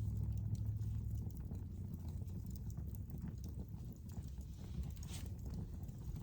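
Wood fire burning in a fireplace: a steady low rumble of the flames with scattered crackles and pops, one sharper pop about five seconds in.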